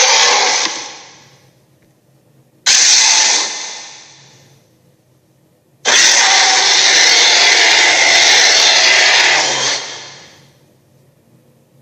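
Western dragon roar sound effects: three harsh, rasping roars that each start suddenly and fade away. The first is trailing off at the start, a short one comes about 3 seconds in, and a long one of about four seconds follows about 6 seconds in.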